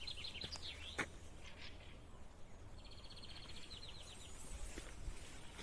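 Small songbird calling: a few high chirps at the start, then a rapid trill of high repeated notes about three seconds in, over a faint outdoor background. There is one sharp click about a second in.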